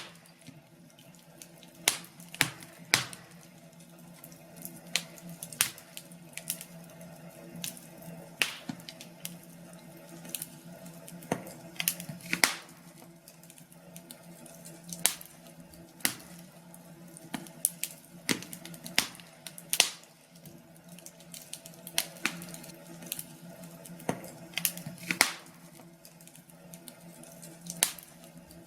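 Wood fire crackling in a fireplace: irregular sharp pops and snaps, a few louder than the rest, over a low steady hum.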